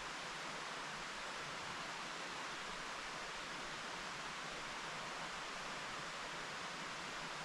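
A mountain stream running steadily: an even rush of water that does not change.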